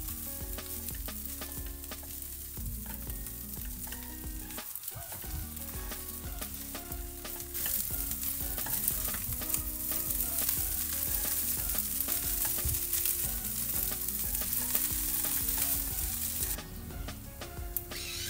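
Fried rice sizzling in a hot nonstick wok as it is stirred and turned with a silicone spatula. The sizzle grows louder about seven seconds in and drops off a little before the end.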